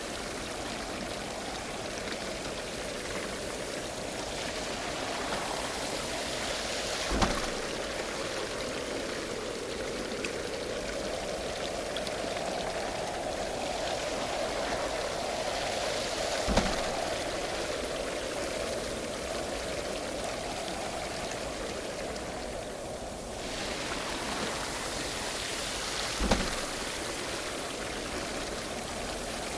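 Water splashing and running steadily at a traditional waterwheel, with three dull knocks about nine to ten seconds apart.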